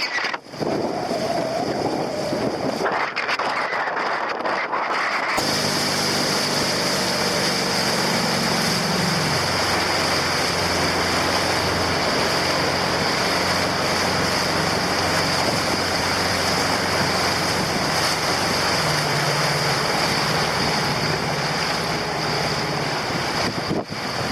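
Wind buffeting the microphone and water rushing while sailing a dinghy in gusty wind, with a steady low hum underneath that shifts in pitch a couple of times. The sound changes abruptly about five seconds in.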